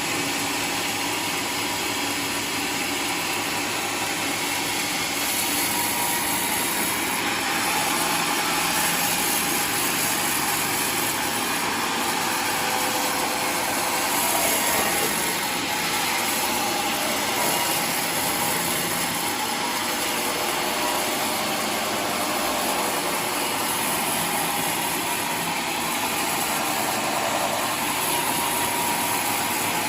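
Homemade sawmill running steadily while sawing through a log of waru wood.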